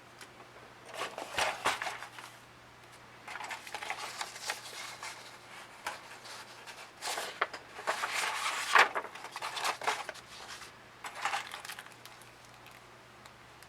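Handling noises: four bursts of crinkling and rustling with light clatter, the longest a few seconds after the middle, over a faint steady low hum.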